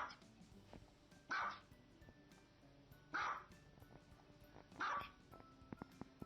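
A dog barking, four single barks evenly spaced about every one and a half to two seconds, with faint music underneath.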